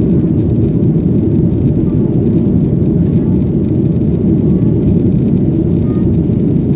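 Steady low roar inside the passenger cabin of a Boeing 737-900ER, from its CFM56 jet engines and the airflow as the airliner takes off.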